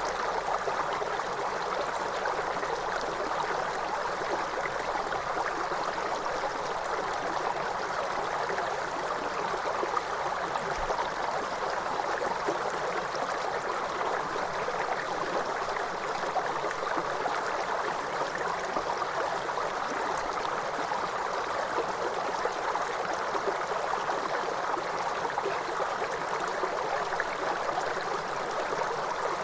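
Waterfall: a steady, even rush of falling water that never pauses or changes.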